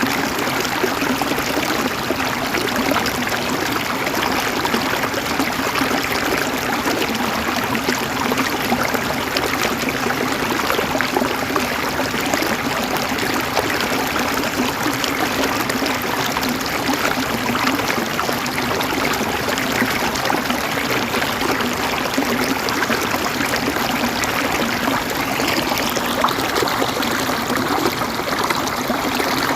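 River water flowing and trickling steadily over rocks.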